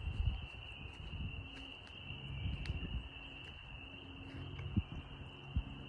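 Steady high-pitched chorus of many small calling animals, over a low rumbling noise on the microphone.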